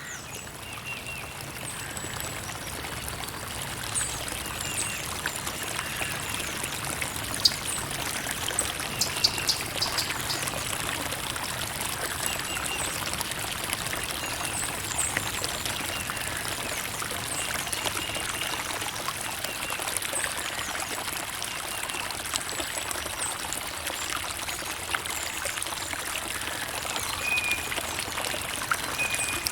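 Creek water running and trickling steadily over stones, with scattered small plinks and splashes. It swells up over the first couple of seconds.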